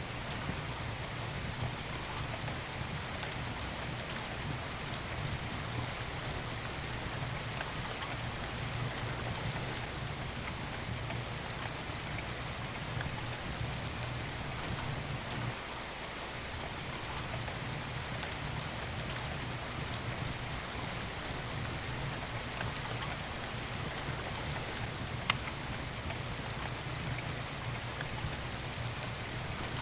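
Steady rain falling, with a few scattered crackles of a wood fire and one sharper pop late on.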